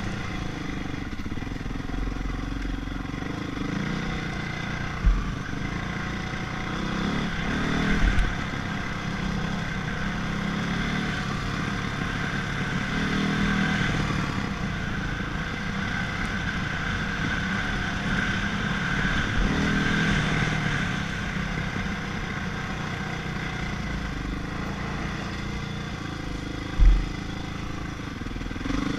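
Honda CRF450 motocross bike's single-cylinder four-stroke engine running, swelling and easing with the throttle. A few short low thumps come through, the loudest near the end.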